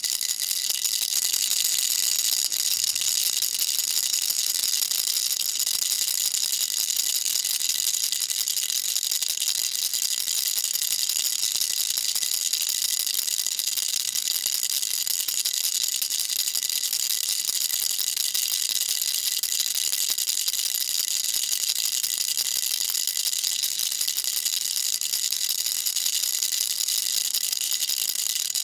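Baby rattle shaken continuously: a dense, even, high-pitched rattling of loose pieces inside, with a faint ringing on top and no pauses.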